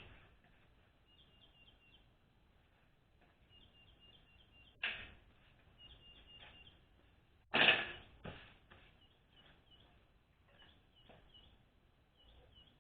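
Small birds chirping in the background in quick groups of three to five short high chirps, over a couple of sharp knocks from work on a 4L60E transmission: one about five seconds in and a louder one a little before eight seconds, followed by a smaller knock.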